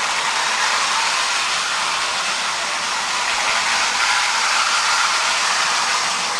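Lionel model train running on its track: a steady whirring hiss with no clear rhythm, mostly high in pitch, that cuts off suddenly at the end.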